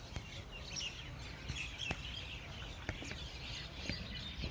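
Small birds chirping here and there over steady outdoor background noise, with a couple of faint sharp knocks about two and three seconds in.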